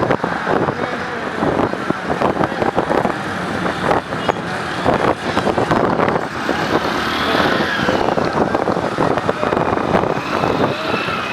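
Motorcycle engine running hard on sand, a loud, rough, steady noise broken by many short sharp crackles.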